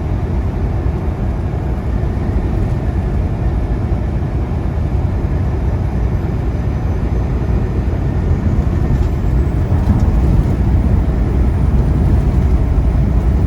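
Semi truck's engine and road noise heard inside the cab while driving: a steady low rumble that grows a little louder in the second half.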